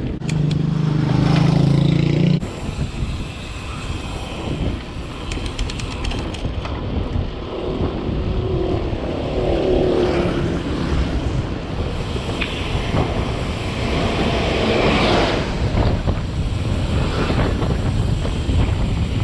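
Mountain bike ride noise: wind buffeting the camera microphone over a rough rumble of riding. A steady low hum in the first two seconds or so cuts off abruptly.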